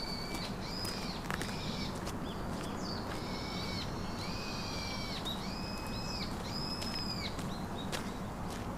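A bird calling over and over in a string of arched, whistled notes, each under a second long, with a few sharp clicks and a low rumble underneath.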